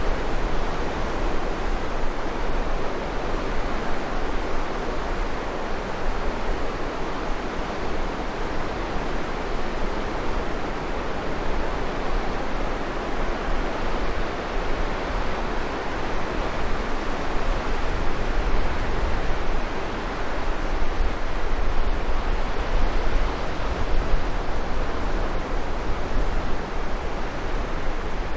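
Steady outdoor rush of wind and water with no distinct events, over a heavy low rumble of wind buffeting the microphone.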